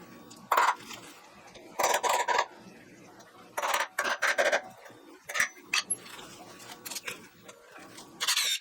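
Short, separate bursts of metal-on-metal squeaking and clinking from a tool cutting holes into steel, about six times with pauses between.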